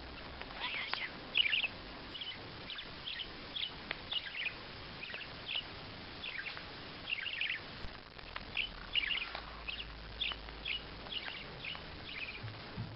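Small birds chirping: a string of short, high, falling chirps, two or three a second, over a faint steady hiss.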